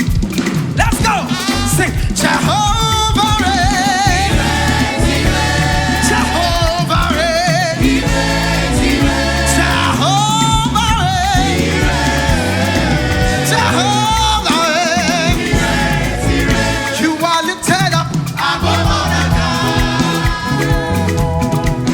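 Live up-tempo gospel praise music: singers with vibrato over a full band with drums and bass.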